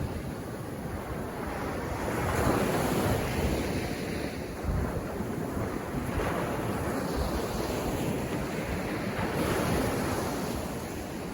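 Sea surf breaking and washing up a beach in swells every few seconds, with wind rumbling on the microphone.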